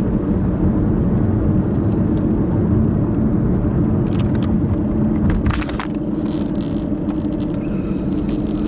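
Steady road and engine rumble of a car on the move, heard from inside the cabin, with a constant low drone. A few short sharp clicks and knocks come about four to six seconds in.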